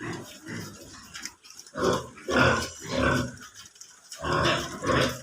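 Pigs calling: a run of three short, loud calls about half a second apart, then a longer call near the end.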